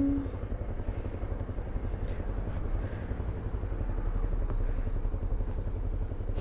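Honda dual-sport motorcycle engine idling steadily, a fast even low pulse.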